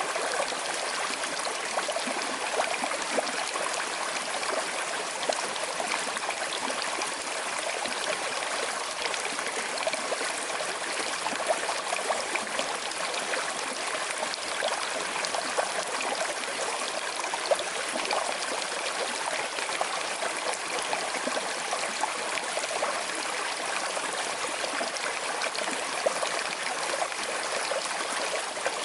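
Small river with a slight current flowing steadily, an even rush of water with a few brief louder splashes scattered through.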